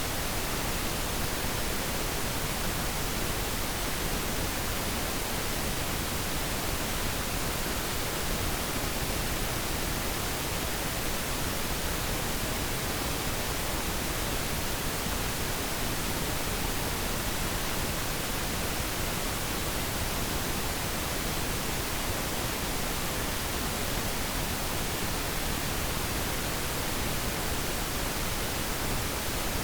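Pure pink noise: a steady, even hiss that is softer in the highs than white noise, unchanging throughout.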